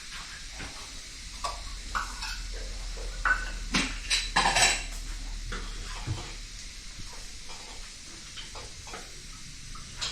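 Kitchen work: metal utensils clinking and scraping against pots and dishes, with a cluster of louder clanks about four seconds in.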